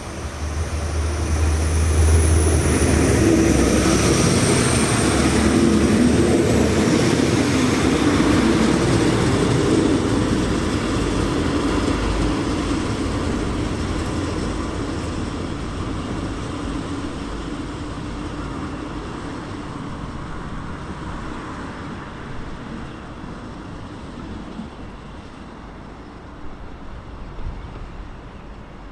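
A train passing close by, loudest over the first ten seconds with a thin high whine near the start, then fading slowly as it runs away into the distance.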